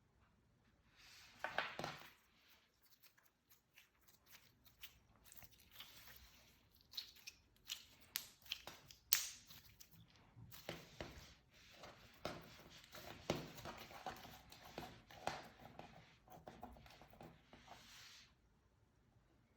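Black magnetic slime being stretched and squished by hand: faint sticky handling sounds with many small clicks and pops, starting about a second in and easing off near the end.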